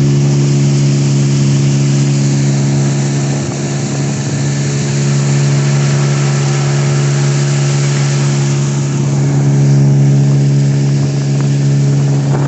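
Outboard motor on an inflatable PVC boat, running at a steady speed with an even, unbroken hum.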